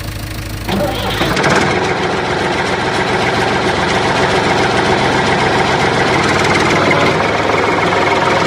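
Engine running sound, steady and continuous. About a second in, a low pulsing rumble gives way to a louder, busier running note.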